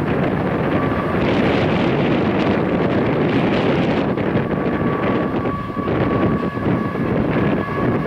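Union Pacific rear distributed-power diesel locomotive and loaded coal hopper cars rolling past. The locomotive engine runs and the wheels roll over the rails under heavy wind buffeting on the microphone. A faint steady whine sits over the rumble from about four seconds in.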